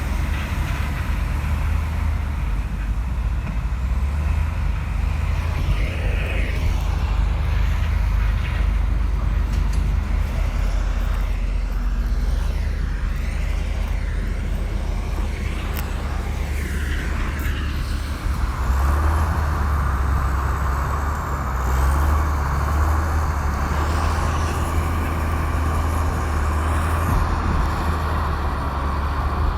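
Komatsu bulldozer's diesel engine running steadily. About two-thirds of the way in, a brighter, higher noise joins it and holds to the end.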